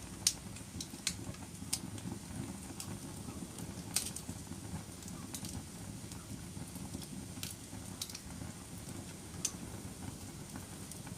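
Wood fire burning in a fireplace: a steady low rumble of flames with scattered sharp crackles and pops, the loudest just after the start and about four seconds in.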